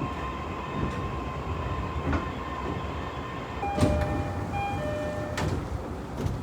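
Tsurumi Line commuter train running, heard from inside the car: a steady rumble with a steady whine. About four seconds in, a two-note electronic chime repeats, with two sharp knocks.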